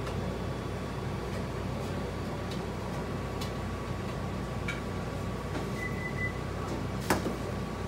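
Indoor restaurant room tone: a steady electrical hum with a few light clicks, a short high beep about six seconds in, and a sharper knock near the end.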